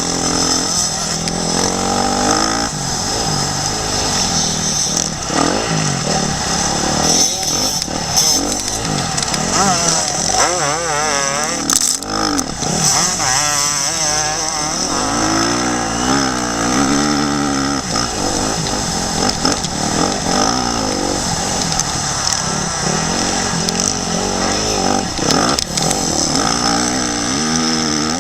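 Motocross bike engine revving up and down over and over as the rider works the throttle and shifts, heard from a helmet-mounted action camera with a constant rush of wind.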